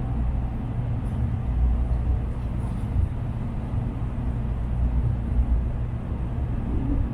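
Shinkansen cabin noise at Maibara Station: a steady low rumble with a constant hum.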